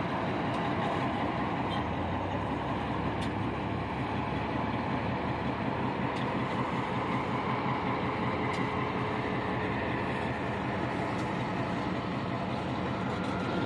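Florida Central Railroad diesel locomotive running steadily as it moves slowly with a string of tank cars, its engine rumbling over the sound of the cars rolling on the track.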